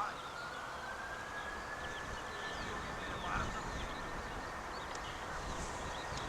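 Distant jet engines of an Airbus A330-200 freighter spooling up for takeoff: a steady rush of engine noise with a whine that rises in pitch over the first few seconds, then holds steady.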